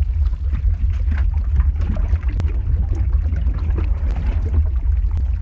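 Lava-flow ambience sound effect: a steady deep rumble under a hiss, with scattered sharp crackles and pops throughout.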